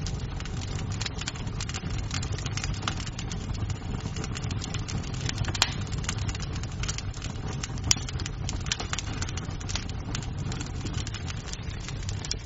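Wood fire burning in a fireplace: a steady low rumble of flames under a constant scatter of small crackles, with two sharper pops of the burning wood, about halfway through and again a couple of seconds later.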